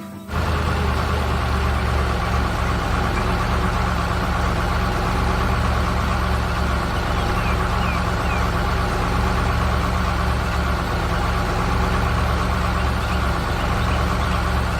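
Heavy vehicle engine idling steadily, cutting in abruptly about half a second in.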